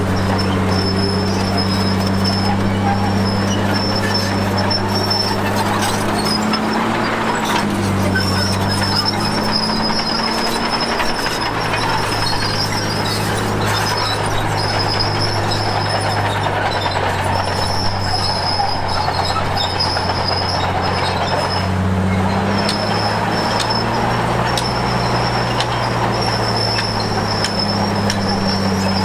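Komatsu D53P bulldozer's diesel engine running steadily, its note dipping briefly under load twice, with an on-and-off high-pitched metallic squeal from the steel tracks.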